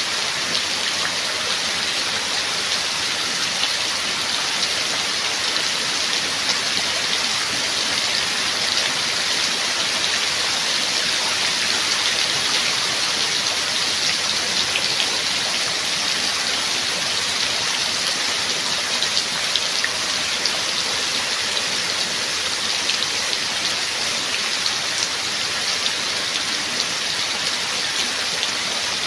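Steady rain falling, a constant hiss of many fine drops with light scattered pattering and no thunder.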